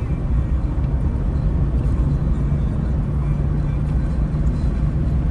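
Steady low rumble of a car driving at constant speed, engine and tyre-on-road noise heard from inside the cabin.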